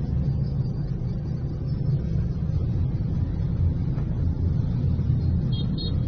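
Steady low rumble of a vehicle driving, as picked up by a dash camera. Two brief high chirps near the end.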